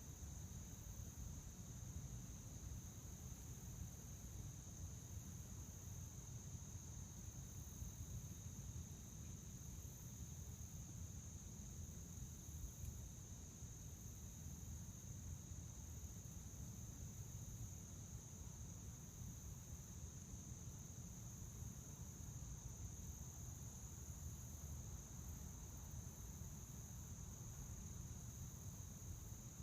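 Field crickets chirping in a steady, unbroken high-pitched trill, faint, over a low background rumble.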